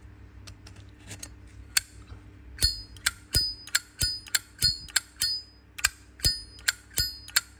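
Zippo lighters' metal lids clicked open and snapped shut over and over, each a sharp metallic clink with a bright ring. A few scattered clicks at first, then a quick run of about three a second from nearly three seconds in.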